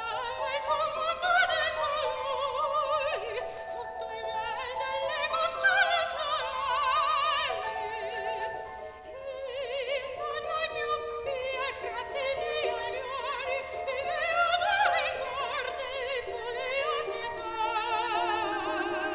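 Soprano singing classical art song with a wide vibrato, in long phrases that climb and fall, over piano accompaniment.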